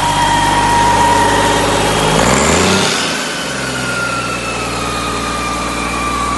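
Cummins ISM-330 inline-six diesel engine running at raised speed, then dropping back to a steady idle about two and a half seconds in, with a steady whine above the engine note.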